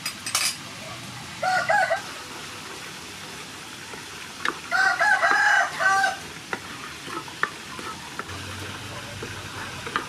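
A rooster crowing twice, a short crow about a second and a half in and a longer one near the middle, over a steady background hiss with light scattered clicks.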